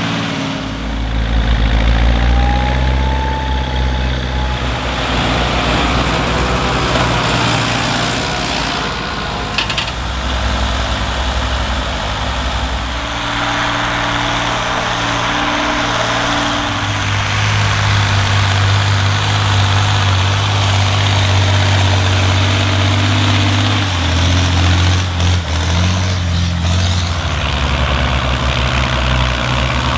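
Heavy farm-machinery diesel engines running steadily, with the engine note changing abruptly several times as different machines are cut together.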